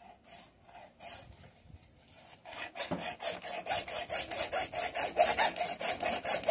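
Hacksaw cutting through a white 100 mm PVC pipe elbow: a few light starting strokes, then quick, even back-and-forth strokes, louder, from about two and a half seconds in.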